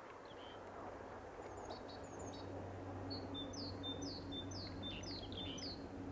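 Small songbird chirping in a quick series of short, falling notes, about two a second, over a faint even hiss and a low steady drone that slowly grows louder.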